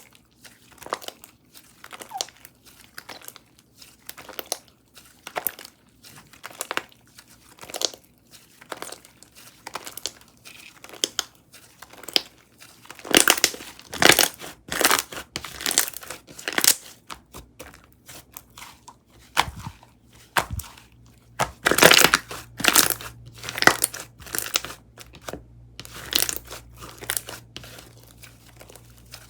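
Kokomo Slime's Vegan Green Caprese slime being squished and pressed by hand, giving a series of short crinkly, crackling squishes. They come about one or two a second at first and grow louder and denser about halfway through.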